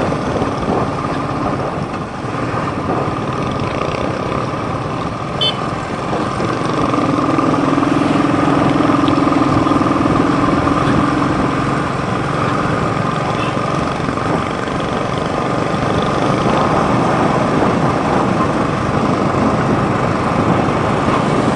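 Motorcycle on the move: its engine running steadily under a continuous rush of road and riding noise. A deeper hum swells for several seconds in the middle, and there is a brief high chirp near the start.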